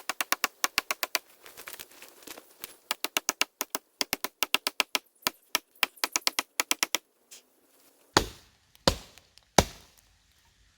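Rapid, even tapping, about seven sharp taps a second, that stops about seven seconds in, followed by three heavy thumps.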